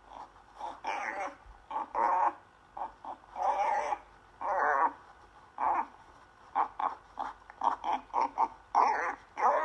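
A dog vocalizing in a string of short, pitched calls about half a second apart, with a quicker run of brief calls near the end.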